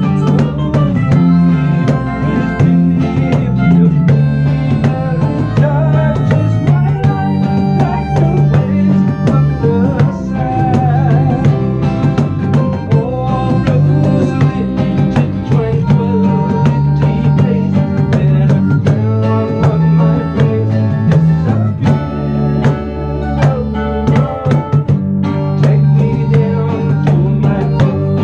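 A band rehearsing a song: guitar and percussion playing together, with some singing.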